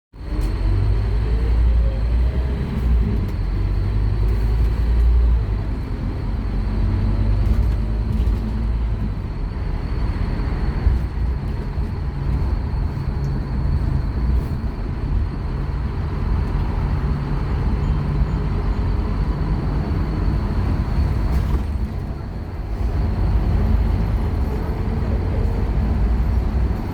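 Scania K230UB Omnilink bus's five-cylinder diesel engine pulling hard under full throttle. Its pitch climbs in the first few seconds, dips briefly around two-thirds of the way through, and climbs again near the end.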